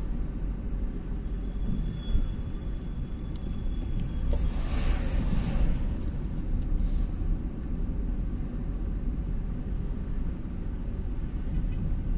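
Steady low rumble of a car on the move, road and engine noise, with a few light clicks and a brief hiss about five seconds in.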